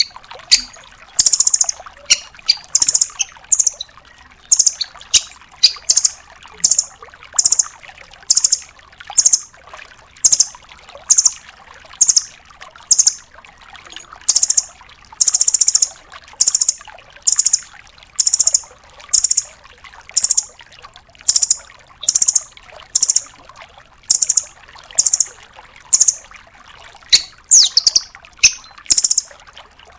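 Velvet-fronted nuthatch (rambatan 'Doraemon') calling continuously: a run of short, sharp, high calls about two a second, broken twice by a longer, faster chattering trill, once around the middle and again near the end.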